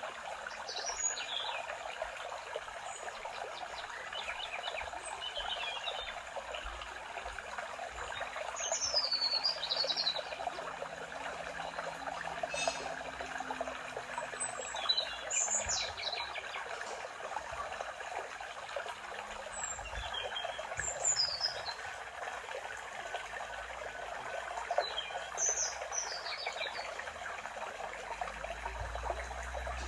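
Forest birds singing short, high, sweeping phrases every few seconds over a steady trickle of running water, as from a small stream.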